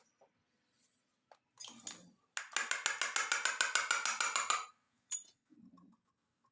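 A fast, even run of sharp metallic clicks, about eight a second for roughly two seconds, after a brief scrape, with one more click a little later.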